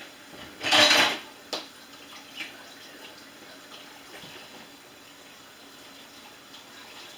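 A brief gush of water from a kitchen sink faucet about a second in, followed by a sharp clink of dishes and a second, lighter one.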